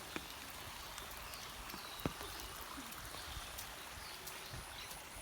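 Steady rain falling, with a few sharp drip-like taps, the loudest about two seconds in, and faint high chirps in the background.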